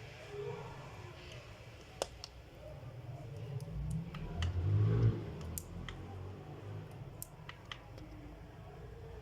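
Scattered sharp clicks and taps of plastic laptop parts being handled during disassembly, with a louder low rumble of handling about four to five seconds in.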